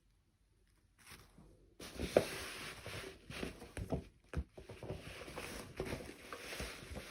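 Rustling and handling noises with many small clicks and taps, starting about a second in.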